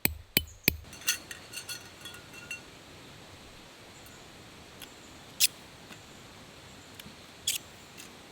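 A tent peg being hammered in with quick, evenly spaced strikes, about three a second, that stop about a second in. Then come a few light metallic clinks with a brief ring, and later two sharp clicks.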